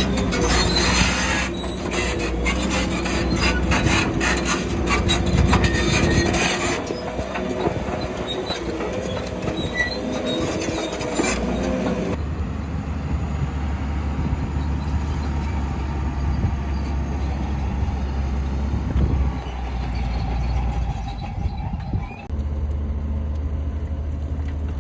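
Shantui crawler bulldozer working: its steel tracks clatter and squeal over the diesel engine's drone. About halfway through the clatter stops abruptly, leaving a steady low engine drone.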